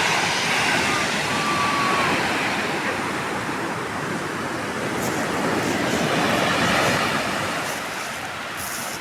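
Ocean surf breaking and washing up a beach: a steady rush of water that swells and eases, loudest at the start and again past the middle, with a faint short high tone about a second in.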